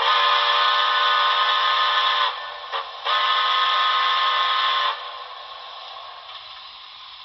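Model steam locomotive sound decoder playing a chime steam whistle through the locomotive's small speaker. It sounds two long blasts with a short toot between them, then trails off into a fading hiss.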